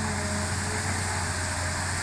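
Hitachi excavator's diesel engine running steadily, an even low hum with no change in pitch or load.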